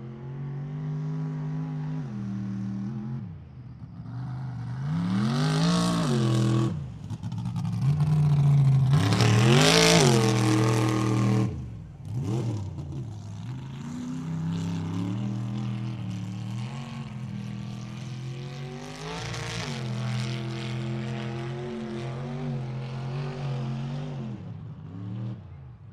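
Mud truck engine revving hard during a run through a mud pit, in several rising and falling throttle surges. The loudest surge comes about ten seconds in and cuts off suddenly, then the engine runs steadier to the end.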